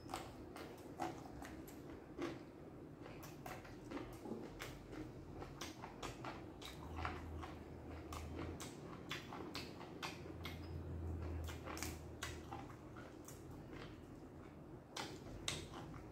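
A person chewing and crunching a mouthful of raw vegetables, with many irregular wet mouth clicks and crackles, and fresh herbs rustling as they are picked from the plate.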